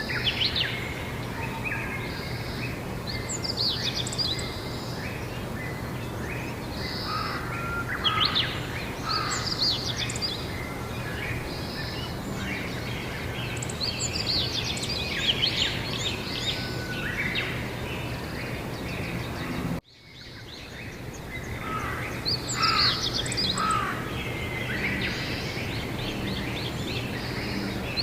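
Several songbirds singing and chirping in bursts over a steady low background hum. About twenty seconds in, the sound cuts out abruptly and fades back in, as at a splice between recordings.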